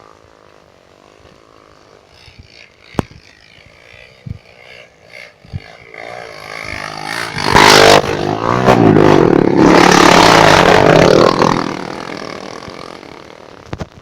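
A trail motorcycle approaching, running loud as it passes close about halfway through, then fading away. A few sharp clicks and knocks are heard before it arrives.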